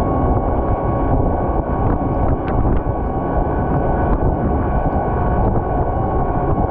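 Volvo L110 wheel loader's diesel engine running steadily while it plows snow, with a steady whine over the low rumble and a few faint ticks.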